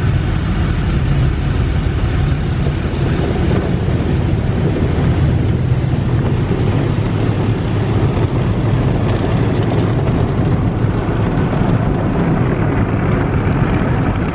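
Automatic car wash equipment working over the car, heard from inside the cabin: a loud, steady drone and rumble.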